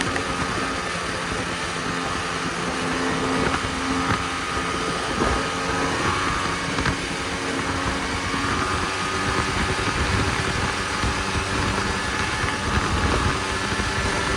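Snowmobile engine running steadily, its pitch drifting slightly up and down, over a constant rushing noise.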